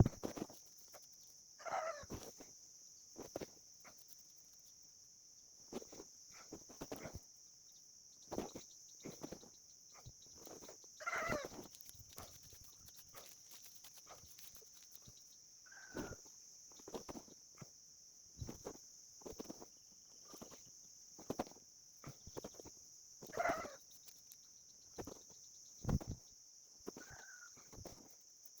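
Soft, scattered knocks and rustles of eggs being handled and set into a container of coco fiber, over a steady high insect drone, with a few short bird calls in between.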